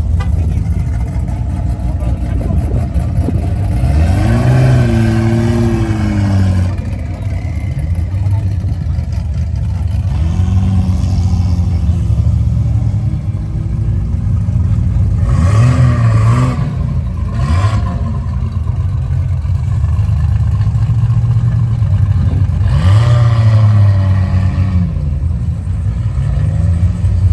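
Car engines running with a steady low rumble, rising in pitch several times as they are revved, with people talking.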